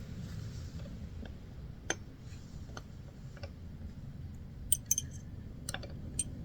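Scattered light clicks and clinks of small metal mini-bike parts being handled, with a quick cluster of clicks about five seconds in, over a low steady hum.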